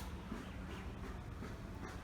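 Faint short bird chirps, a few scattered through, over a steady low rumble.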